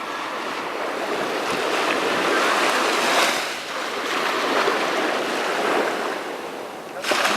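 Sea waves breaking and washing up the beach, a continuous rush of surf that swells and eases, with a fresh surge coming in suddenly near the end.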